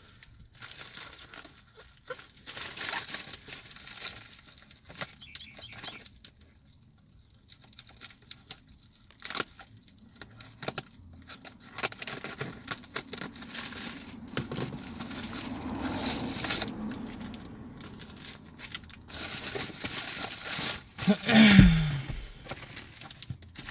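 Mail packaging for trading cards being torn open and crumpled, with scattered rustling and handling clicks. A short, low, falling sound near the end is the loudest moment.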